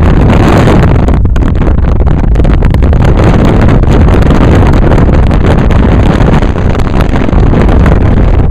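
Strong wind buffeting a camera microphone held at an open car window while driving: a loud, continuous rushing and rumbling, heaviest in the low end, with irregular fluttering gusts mixed with the car's road noise.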